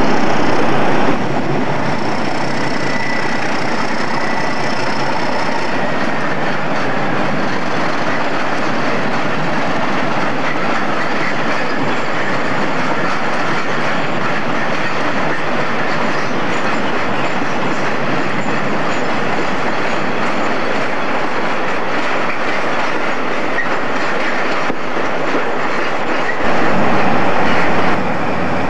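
Loaded steel-coil freight wagons rolling past, wheels clattering over the rail joints, with a faint wheel squeal between about two and six seconds in. Near the end a low diesel engine drone comes in from an approaching High Speed Train power car.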